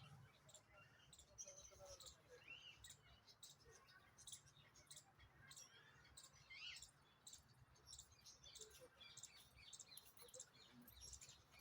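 Faint bird chirping: many short, high chirps scattered throughout, with a few quick rising calls, over a low background hum.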